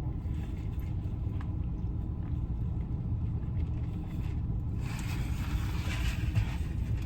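Steady low rumble, with a higher hiss joining it about five seconds in.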